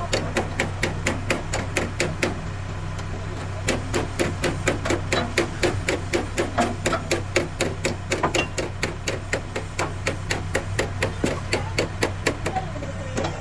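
Rapid, steady hammering on metal, about four blows a second, with a steady low hum underneath.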